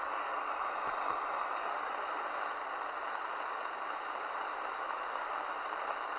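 Steady static hiss from a Midland Alan 8001 CB radio's receiver between transmissions, with two short clicks about a second in.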